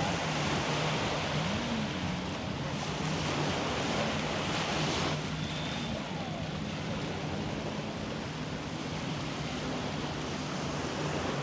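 Sea surf washing onto a sandy beach, a steady wash of noise.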